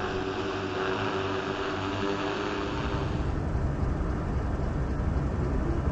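Steady engine noise, with a few held tones that drop away about three seconds in, leaving a lower rumble.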